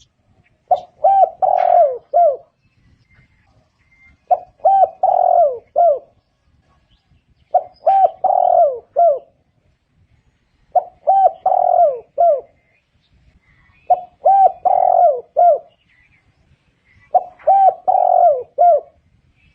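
Spotted dove calling: six repeated phrases about three seconds apart, each a run of about four low coos with one longer note in the middle.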